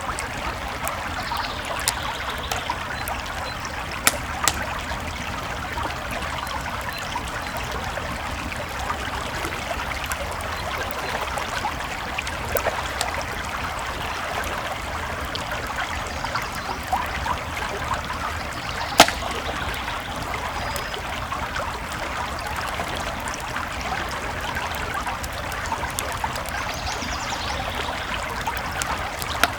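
Creek water flowing steadily, with campfire crackles and pops scattered through it; the sharpest pop comes about 19 seconds in.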